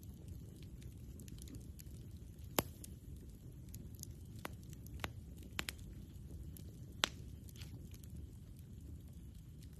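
Wood campfire burning: a low steady rumble with scattered sharp crackles and pops, the loudest about two and a half seconds in and again about seven seconds in.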